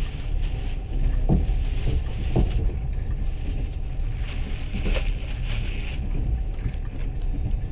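A moving train heard from inside the carriage: a steady low rumble with a hiss above it, and a few sharp knocks about a second in, near two and a half seconds in, and around five seconds in.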